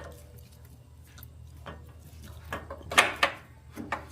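Metal clicks and knocks of a Harley-Davidson Street Glide's rear brake pedal being slid onto its pivot shaft: a few separate knocks, the loudest about three seconds in.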